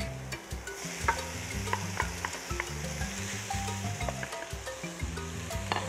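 Shredded salted cod hitting hot oil and sautéed seasonings in a pan and sizzling, the hiss swelling about a second in, while a wooden spoon scrapes and knocks the last of the fish out of a bowl.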